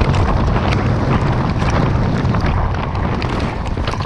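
Strong snowstorm wind buffeting the microphone: a steady low rumble with irregular crackles throughout.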